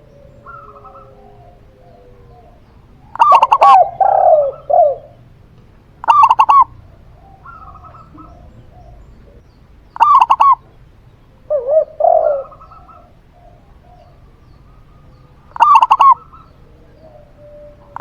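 Two caged doves calling in turn. A zebra dove (perkutut) gives four short, high, rapid cooing phrases a few seconds apart, and a spotted dove (tekukur) answers twice with a lower coo.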